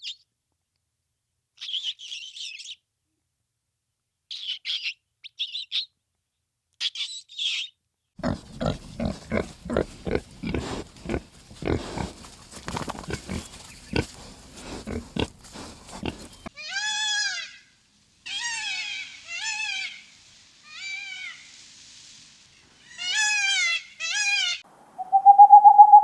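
Animal calls: a few short high squeaks, then a rapid run of pig grunts and squeals lasting about eight seconds, then six short calls that bend down in pitch.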